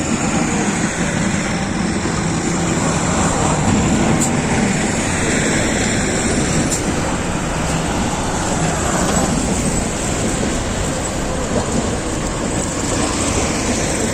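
Steady, loud city street noise of passing traffic, a dense even rumble with a few faint high squeals and two brief clicks.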